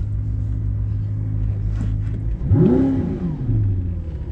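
Audi R8's 4.2-litre V8 idling steadily, then revved once about halfway through: the pitch climbs quickly and falls back to idle within about a second. A sharp click right at the start.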